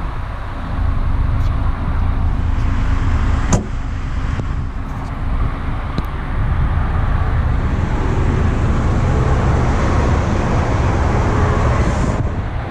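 A steady low rumble of a vehicle running, with two light clicks, one about three and a half seconds in and one about six seconds in.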